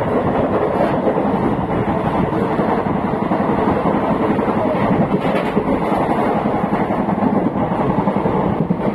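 Passenger train running on the track: a steady rumble and clatter of the moving coach.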